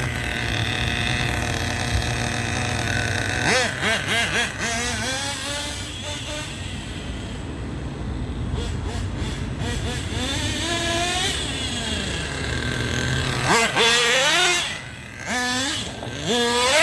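Small .21 nitro engine, just started on a new glow plug, running and warming up, its pitch rising and falling several times as the revs change.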